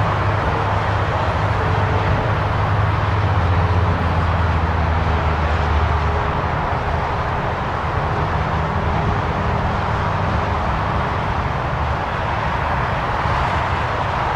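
Boeing 777 jet noise on the runway after touchdown: a steady rushing roar with a strong low engine drone that fades about six seconds in as the aircraft slows.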